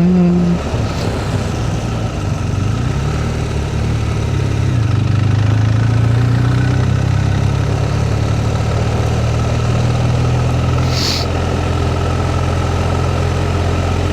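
BMW R1250R boxer-twin engine running steadily under way. Its pitch rises a little about three seconds in and then holds. There is a brief hiss about eleven seconds in.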